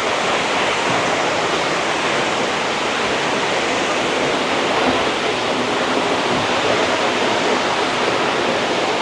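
A large waterfall pouring, heard from close enough that its spray reaches: a loud, steady rush of falling water.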